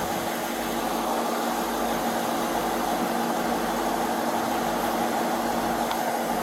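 Steady vehicle cabin hum: engine and blower noise under an even hiss, with a few steady low tones.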